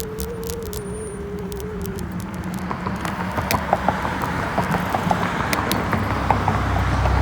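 A bicycle being ridden: a steady thin whine for the first two seconds, then rattling and clicking over a low rumble that grows toward the end.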